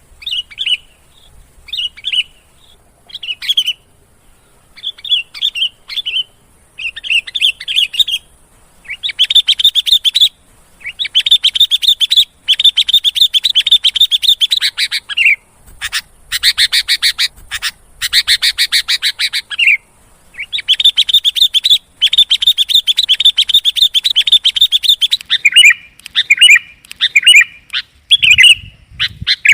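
Sooty-headed bulbul (kutilang) calling: short chirpy phrases about a second apart, then from about nine seconds in long runs of rapid chattering, with short phrases again near the end.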